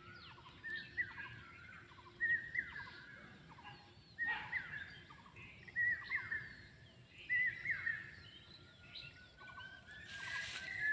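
Several songbirds calling: short chirped phrases repeating every second or so and overlapping one another, over a faint steady high-pitched whine, with a brief hiss near the end.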